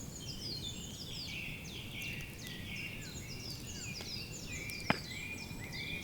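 Birds singing, a dense run of short falling chirps, over low background noise. A single sharp click about five seconds in.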